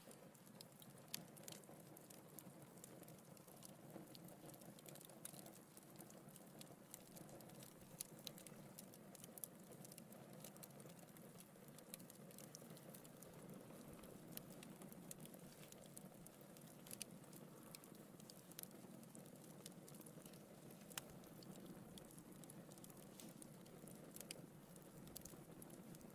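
Wood fire burning in a fireplace, faint, with scattered sharp crackles and pops from the logs over a soft steady rumble of the flames.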